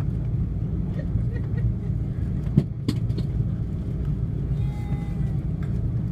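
Steady low rumble inside the cabin of an Airbus A330-300 with its engines running just before takeoff, with two sharp clicks about two and a half and three seconds in.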